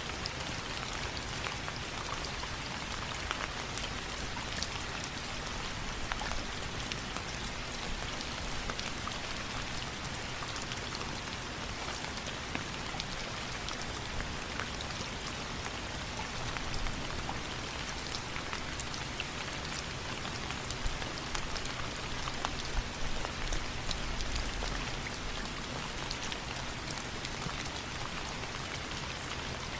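Steady rain falling, with many scattered sharp drop ticks throughout.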